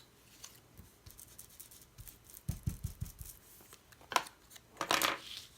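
Paper being trimmed with scissors: a few soft handling bumps, then sharp snips about four and five seconds in.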